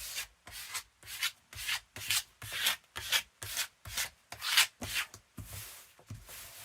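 Hands rubbing paper down onto a PVA-glued page, smoothing it from the middle outward in quick strokes, about two a second, with a longer, softer rub near the end.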